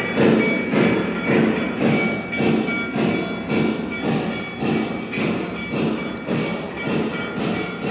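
O gauge model steam locomotive running on track, its onboard sound system playing a steady chuff of about two beats a second, with the clatter of the wheels on the rails.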